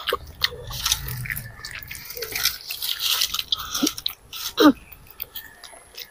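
Close-miked chewing and lip-smacking of children eating noodles by hand, a run of short wet mouth clicks. A brief hum of the voice a little past the middle is the loudest moment.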